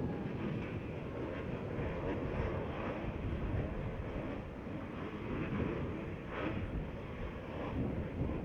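A pack of motocross bikes' engines running together on the starting line as a steady, blended engine noise, waiting before the revs go up for the start.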